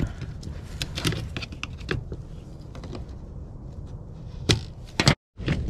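Small clicks and taps of the chainsaw's recoil starter parts being handled as the starter spring is worked back into its housing, with two sharper clicks late on and a moment of total silence near the end.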